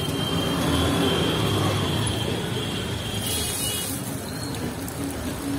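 Potato tikkis sizzling in shallow oil on a large flat iron griddle, a steady frying hiss with a brief sharper hiss a little past three seconds in. Street traffic noise runs underneath.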